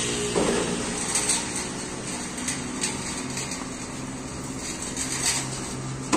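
Scattered metallic clinks of hoist and lifting chains over a steady low motor hum, as a truck engine is lowered on a hoist.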